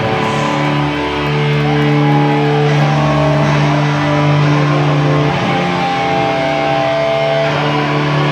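Live amplified rock band: electric guitar holding long ringing chords and notes over bass, changing slowly every second or so.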